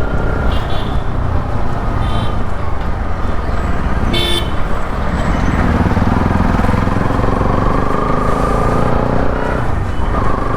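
Bajaj Pulsar NS200's single-cylinder engine through an aftermarket Akrapovic full-system exhaust, running steadily while riding in city traffic, with road noise. A vehicle horn toots briefly about four seconds in, and a tone rises for a couple of seconds about seven seconds in.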